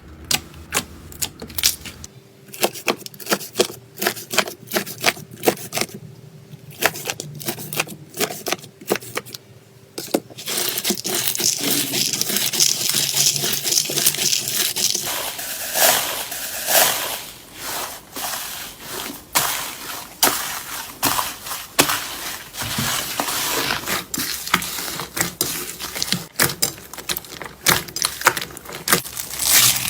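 Slime being squished and worked, making a run of sharp clicks and pops. From about ten seconds in it becomes a dense crackling, then returns to separate clicks and pops near the end.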